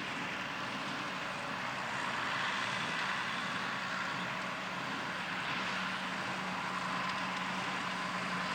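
Allis-Chalmers 200 tractor's diesel engine running steadily under load, pulling a New Holland 273 square baler that works behind it.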